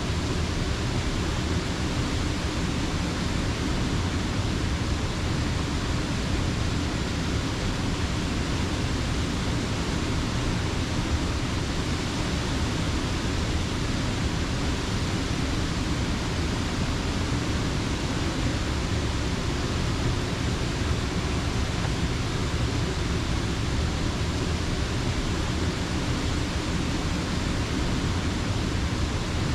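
Creek water rushing steadily: a dense, unbroken wash of noise, heavy in the low end.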